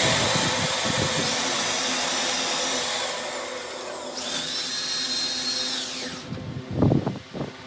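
A high-pitched handheld power tool, drill or grinder type, running with a shrill motor whine in two spells; its pitch sinks as it spins down about six seconds in. A few knocks follow near the end.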